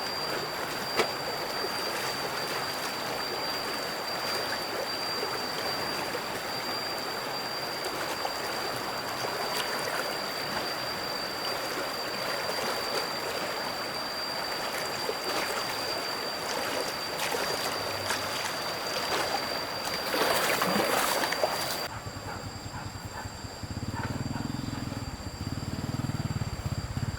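Steady rush of flowing water with a thin high steady tone over it. About 22 seconds in it cuts suddenly to a quieter scene with a low drone.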